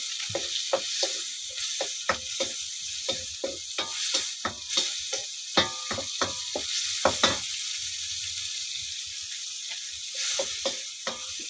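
Onions and tomatoes frying in a pot with a steady sizzling hiss, with quick irregular knocks and taps of stirring against the pot, mostly in the first seven seconds and again briefly near the end.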